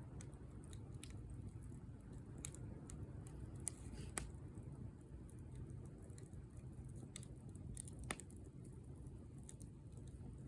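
Wood fire crackling, with sharp pops at irregular intervals over a low steady rush of burning. The loudest pops come about four seconds in and again about eight seconds in.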